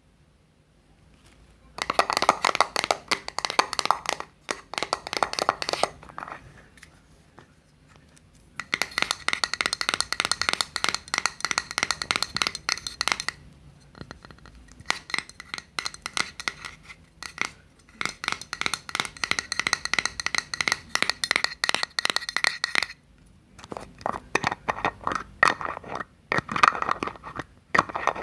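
Close-miked ASMR scratching: rapid, dense scratching strokes in bursts of several seconds, with short pauses between them.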